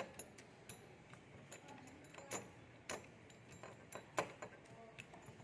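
Scattered light clicks and taps at irregular intervals, with a few sharper knocks among them, the loudest about four seconds in.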